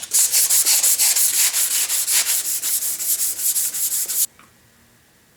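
Hand scraping of hardened body putty off a pulley on a machine shaft: rapid, even back-and-forth strokes, about seven a second. The scraping stops suddenly about four seconds in.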